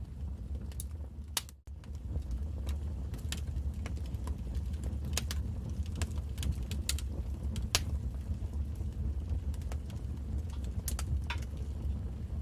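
Wood fire crackling in a fireplace: irregular sharp pops and snaps over a steady low rumble. The sound cuts out for an instant about a second and a half in.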